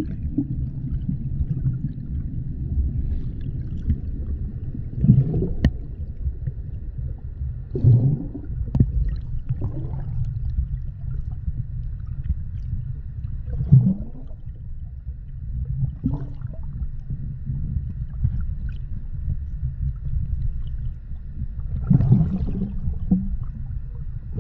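River water rushing over a cascade: a steady low rumble with several louder gurgles and surges along the way.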